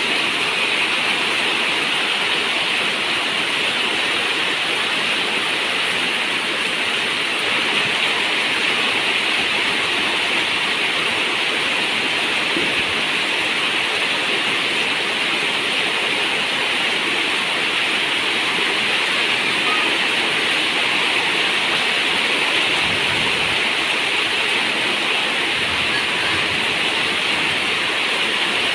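Steady, even rush of water with no separate drops standing out.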